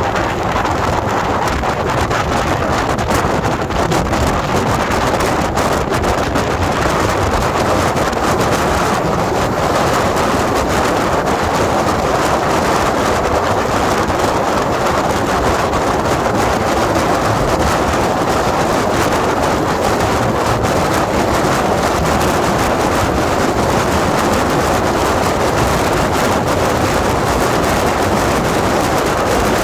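Wind rushing over the microphone of a moving 2021 Indian Scout Bobber Twenty, with its liquid-cooled V-twin engine running underneath, steady throughout.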